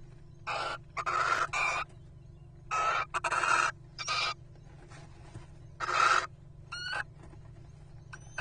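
Little owls giving a series of harsh, hissing screeches, each about half a second long, some in quick pairs, with one short rising squeak near the end.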